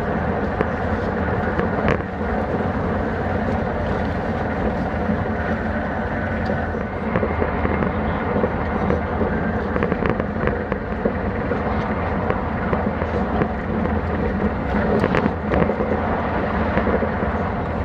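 Steady running noise inside a passenger train carriage at speed: a continuous rumble and hum with scattered light clicks and knocks.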